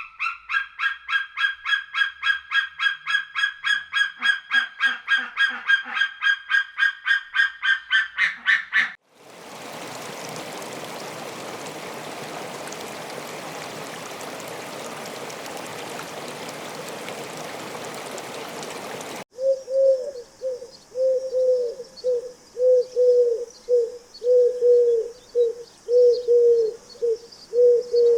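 Bird calls edited together. First comes a fast run of repeated honking calls for about nine seconds, goose-like. Then about ten seconds of steady rushing noise that cuts off suddenly. Then a series of low hoots repeating about once or twice a second.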